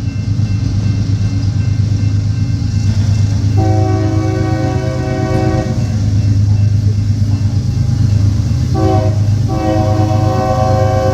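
Train horn sounding a chord of several notes over a steady low rumble of a passing train: one long blast a few seconds in, then a short blast and another long blast near the end.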